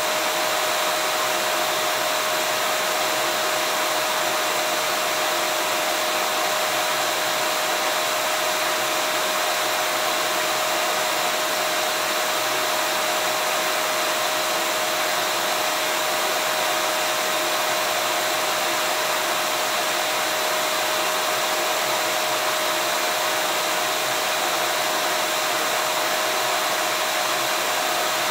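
Vacuum cleaner motor running steadily: an even rushing hiss with one steady whine, unchanging throughout.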